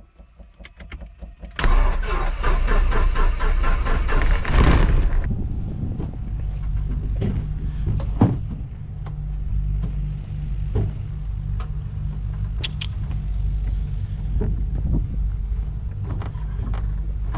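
Piper Cherokee 140's four-cylinder Lycoming engine being started from cold, heard from inside the cockpit. About a second and a half in, the starter cranks and the engine catches, running loud for a few seconds, then it settles into a steady idle.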